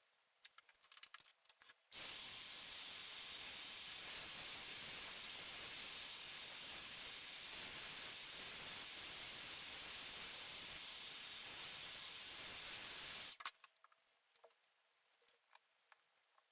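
Steady hiss of pressurised gas rushing from a nozzle, like an aerosol spray or an air jet, starting suddenly about two seconds in, holding even for about eleven seconds, then cutting off abruptly. Faint small handling ticks come before and after it.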